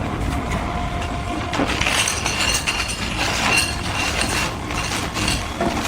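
Heavy excavator and dump truck machinery rumbling steadily, with scattered metallic clinks and rattles.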